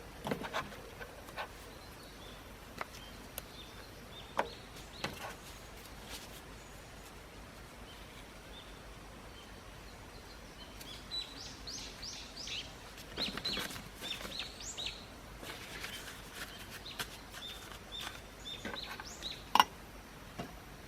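Wild birds chirping, with a run of quick falling notes in the middle. A few sharp clicks and knocks come through now and then, the loudest near the end.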